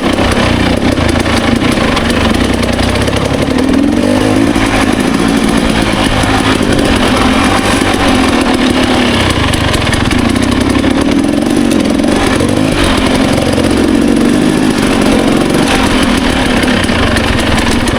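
Two-stroke dirt bike engine running under way on a trail, its pitch rising and falling gently with the throttle.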